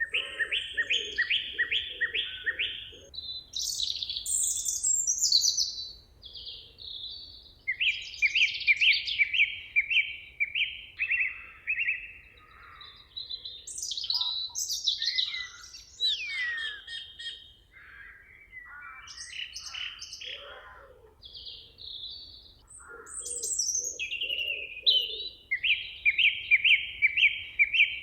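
Several songbirds singing. The songs overlap in phrases of quickly repeated notes, some with a falling slur, with short pauses between songs.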